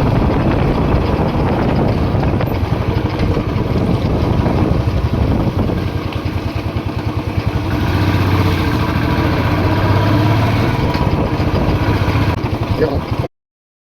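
Motorcycle engine running while riding along, a steady hum under a rush of noise, cutting off abruptly near the end.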